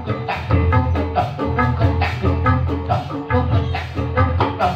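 Live ebeg dangdut kreasi music: tuned struck percussion playing a quick repeating pattern of short notes over drums and a steady bass line.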